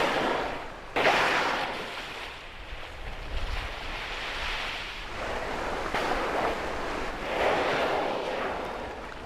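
Rushing, surf-like noise with no pitch, surging sharply about a second in and swelling again around six to eight seconds in.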